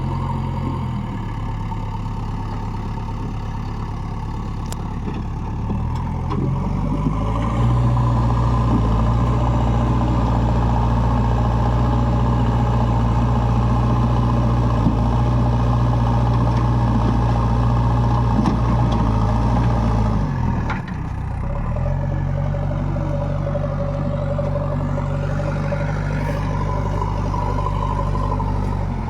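Heavy diesel machine engine running steadily, its speed and loudness stepping up about seven seconds in and holding, then dropping back with a brief dip about two-thirds of the way through and settling at a lower, steady speed.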